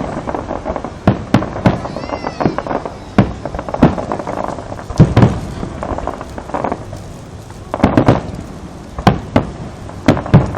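Fireworks bursting in a rapid, irregular series of sharp bangs over a constant rumble, with the loudest reports about halfway through and again near the end.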